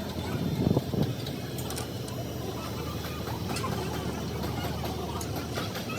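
An engine running steadily with a low hum, with a couple of louder knocks about a second in and faint scattered clicks.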